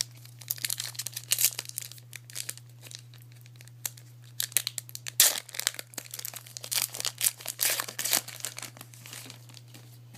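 Crinkling and tearing of a trading-card pack wrapper being opened, in two spells of crackling with a short pause between.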